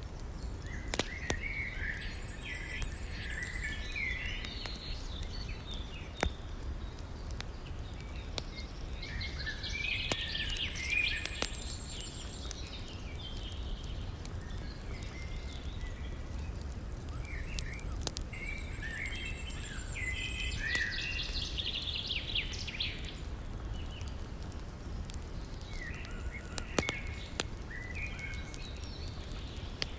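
Songbirds singing in repeated bouts of chirping phrases over a steady low rush, with scattered sharp pops and crackles from a campfire.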